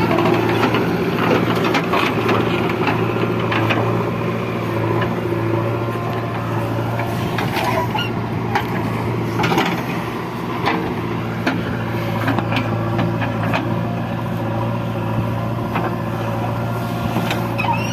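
Diesel engines of heavy machinery running steadily under a low, even hum, with scattered sharp knocks and clanks throughout.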